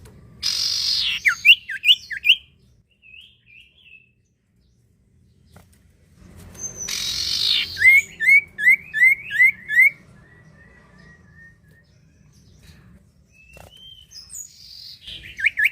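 Iora (sirtu or cipoh) calling in three bouts, about a second in, near seven seconds and near the end. Each bout opens with a harsh rasping note and runs straight into a quick series of slurred, chirping notes.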